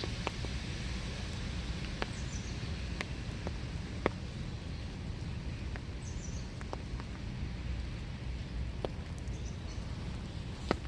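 Steady winter rain falling in woodland, with scattered single drops ticking sharply close by. A few faint, high bird chirps come through about two, six and nine seconds in.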